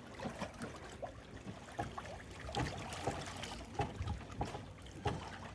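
Water lapping and trickling gently against a boat's hull, with faint small irregular clicks and splashes.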